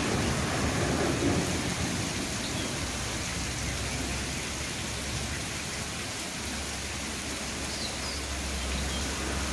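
Heavy rain pouring steadily, with a low rumble of strong wind underneath.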